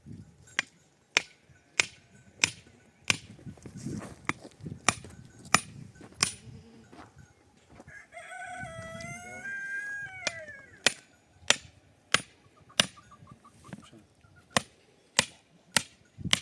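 Steady, sharp blows of a hammer or mallet, about three every two seconds. The blows pause while a rooster crows once, a long call about eight seconds in.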